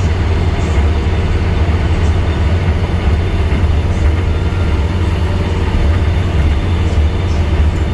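Scania N230UD double-decker bus's five-cylinder diesel engine running with a steady low rumble.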